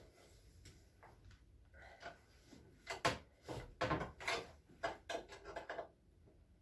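A run of sharp metallic clicks and knocks, starting about three seconds in and stopping shortly before the end: a 10 mm wrench working a car battery's terminal clamps during a battery swap.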